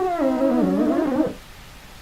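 A werewolf creature sound effect: a drawn-out, wavering howling cry that sinks in pitch and breaks off about a second in, over steady rain.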